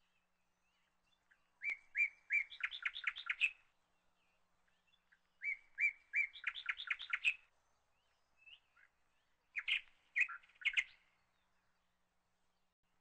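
A bird chirping in three short bursts of quick, repeated notes, a few seconds apart.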